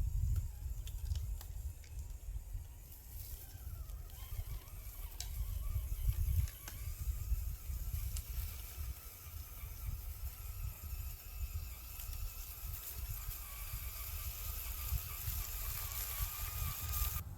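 Uneven low rumble of wind buffeting the microphone, with a faint wavering whine from the RC crawler's small electric motor and gears that sets in a few seconds in, and a few light clicks.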